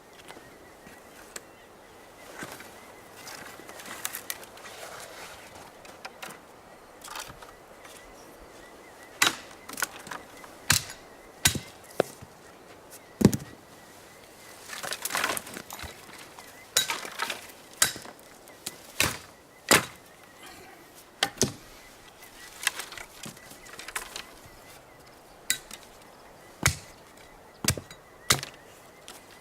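Wood being chopped for a campfire: a run of sharp, irregular blows, some in quick pairs, the loudest about a third of the way in.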